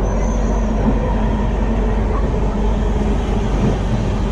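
Steady running rumble of a moving LHB passenger coach, heard from inside the coach.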